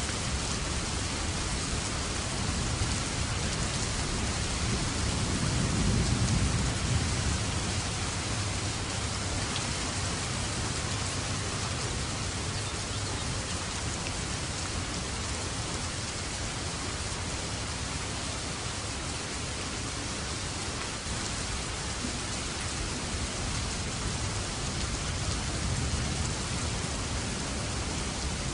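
Steady rain falling, with a low rumble of thunder swelling and fading about five to seven seconds in.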